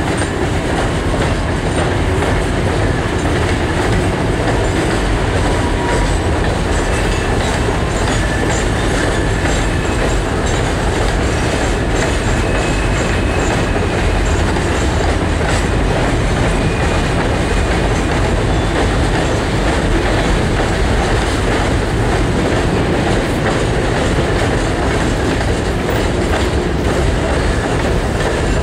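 Freight cars rolling steadily across a steel trestle: a continuous rumble of steel wheels on rail with rhythmic clacking over the rail joints and a few brief, faint wheel squeals.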